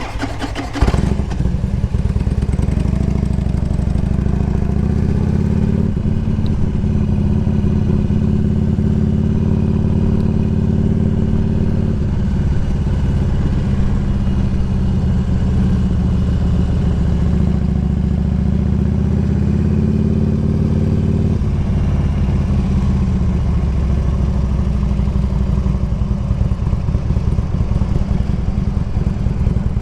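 Harley-Davidson Road King Classic's V-twin engine running. It picks up about a second in, then runs steadily, its note changing around six seconds in and again around twenty-one seconds in.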